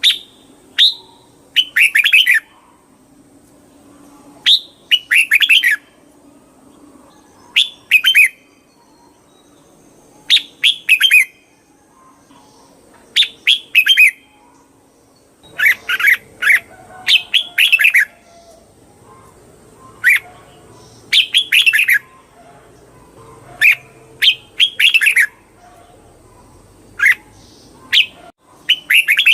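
Red-whiskered bulbul singing: short, quick warbled phrases repeated every two to three seconds, with a faint steady high tone behind.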